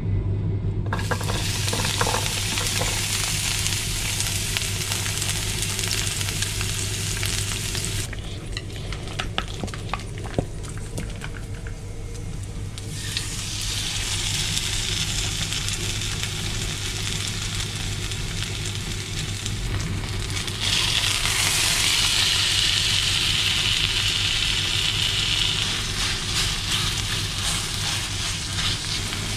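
Chicken breast and garlic cloves sizzling as they fry in oil in a nonstick frying pan, with scattered clicks and taps of the cooking utensils against the pan. The sizzle drops back for a few seconds about a third of the way in, then returns and is loudest a little past two thirds of the way through, over a steady low hum.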